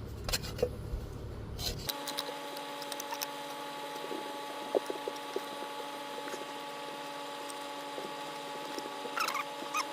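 Garden shovel scraping and knocking caked old grass off the underside of a mower deck: scattered light scrapes and ticks, with a faint steady hum underneath from about two seconds in.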